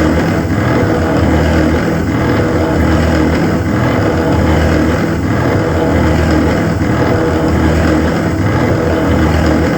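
CNC machine running steadily, a loud, even machine hum with low droning tones that hold pitch throughout.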